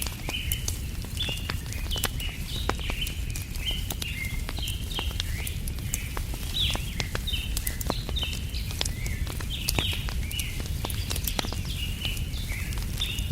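Wood fire crackling, with sharp pops scattered throughout over a low steady rumble. Small birds chirp constantly behind it in short, quick falling notes, several a second.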